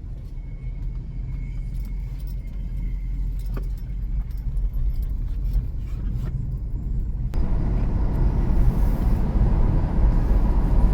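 Car driving, with a steady low engine and road rumble; about seven seconds in the tyre and road noise turns suddenly louder.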